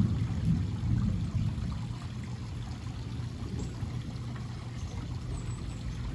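Thunder rumbling low and fading over the first couple of seconds, then steady rain falling.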